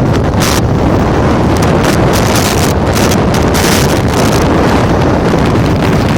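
Heavy wind noise buffeting the microphone: a loud, steady low roar with short gusts of hiss every second or so.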